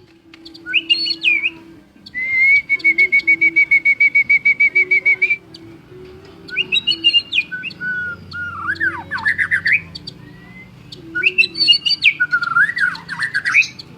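White-rumped shama (murai batu) singing loud whistled phrases with rising and falling sweeps. About two seconds in comes a fast run of identical notes on one pitch, about seven a second, lasting some three seconds.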